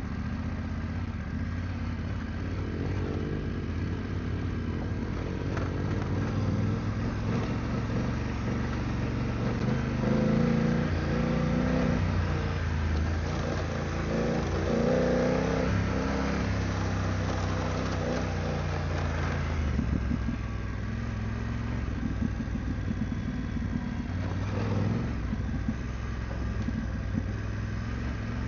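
BMW F900GS parallel-twin engine running under way, its revs rising and falling, busiest for a few seconds around the middle, with a brief drop near two-thirds of the way through.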